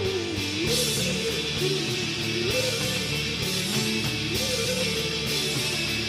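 Indie rock music: strummed electric guitars under a wavering melody line, the sound filling out and brightening a little under a second in.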